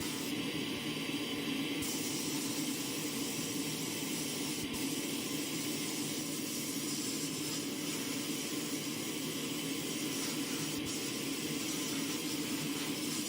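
Steady hissing noise, like rushing air or spray, with a low hum underneath, unbroken throughout.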